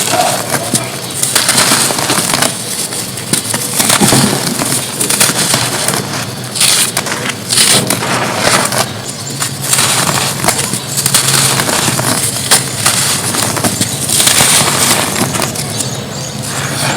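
Red dirt cones being crumbled: a dense, gritty crunching and crackling that comes in repeated surges.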